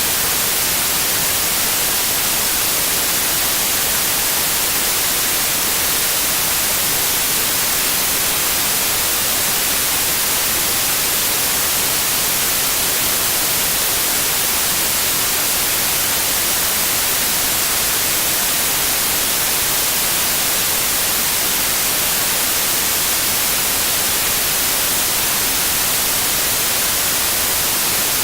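Steady synthetic white noise: an even, unchanging hiss, brightest in the high end.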